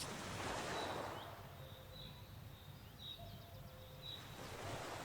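Faint outdoor ambience: a soft rushing noise that swells near the start and again near the end, with faint, short, high chirps scattered throughout.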